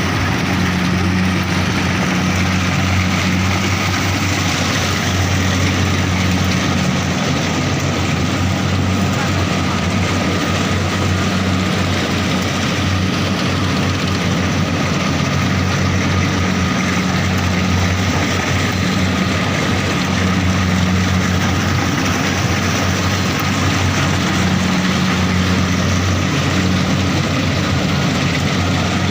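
Rice combine harvester running steadily in a paddy field: a constant low engine hum with a hiss of machinery noise above it.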